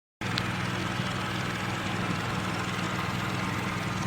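A steady mechanical hum, like an engine idling, with a constant low drone under a wide hiss. It cuts in suddenly a moment in, with a faint tick just after.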